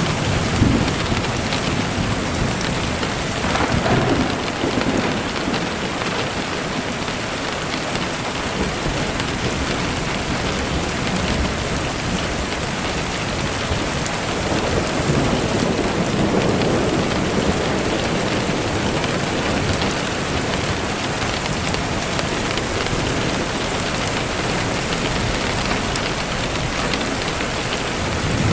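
Steady rain falling, a dense even hiss, with deeper low swells in the sound about four seconds in and again around the middle.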